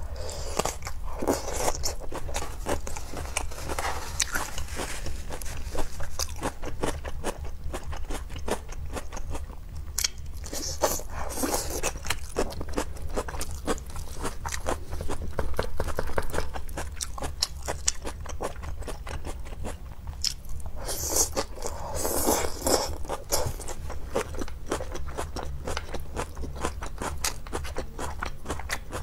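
Crunchy bites and chewing of grilled cabbage leaves pulled off a skewer, with a dense run of small crackling clicks and louder crunching bites every few seconds.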